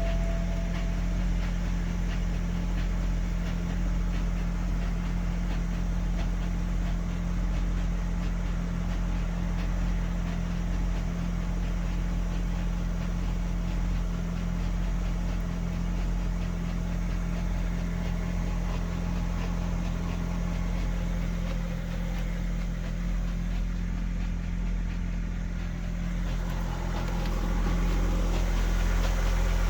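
BMW 730d E65's M57N2 straight-six diesel idling steadily with a fine, fast ticking, an engine noise the owner puts down to the timing chain. It grows slightly louder near the end.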